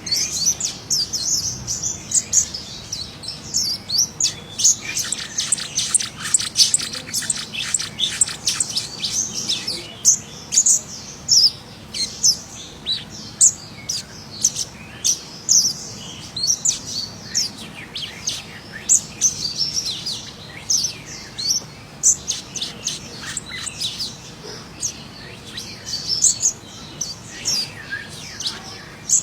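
Scarlet minivet (sepah raja) singing actively: a long run of quick, high-pitched chirps and whistled notes, densest in a rapid chattering stretch from about four to ten seconds in, then continuing in shorter spaced phrases.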